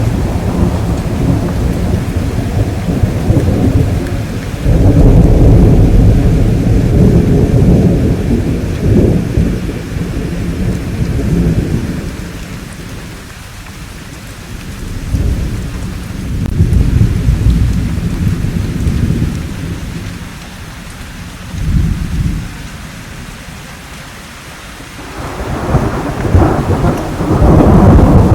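Rolling thunder over steady rain: long low rumbles swell and fade, loudest about five seconds in and again near the end, with quieter spells of rain between.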